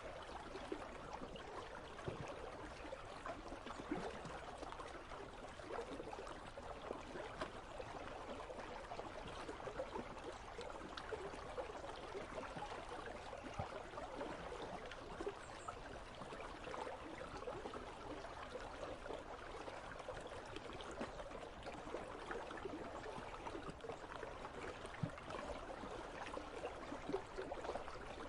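Icy river running, a steady babble of water with small splashes throughout.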